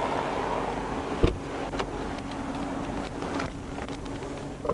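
Steady running noise of a car, with one sharp knock about a second in and a few lighter clicks after it.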